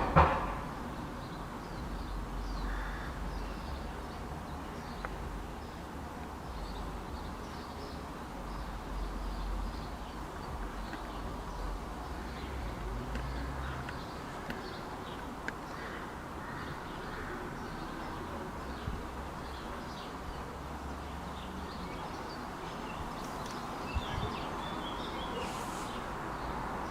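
Morning chorus of small songbirds, many short chirps and twitters scattered throughout, over a steady low background rumble. One loud call right at the start.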